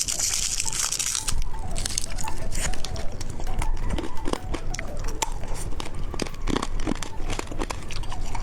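Close-miked candy eating: crunching and chewing, a quick run of small crackles and clicks. A brief crinkly rustle fills about the first second.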